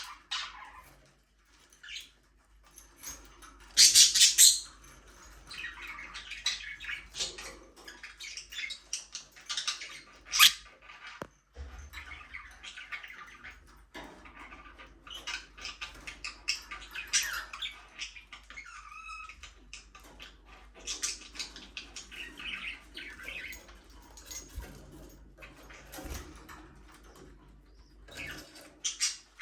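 Budgerigars chirping and warbling in an aviary, a run of short overlapping chirps with louder bursts about four and ten seconds in.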